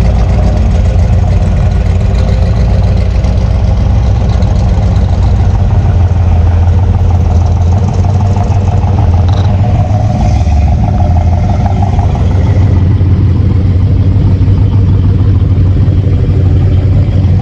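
A vehicle's engine running steadily under way, a loud, constant low rumble without a break.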